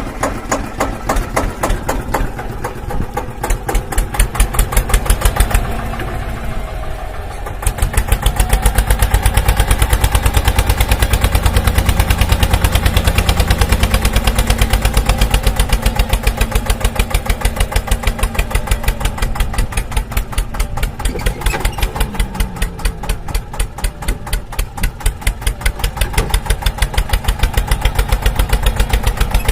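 Small engine of a DIY mini tractor running steadily with fast, even firing pulses. It grows louder and heavier about eight seconds in.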